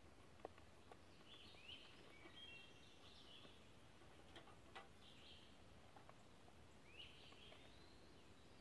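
Near silence: faint woodland birdsong, short chirps and rising notes, with a few soft clicks.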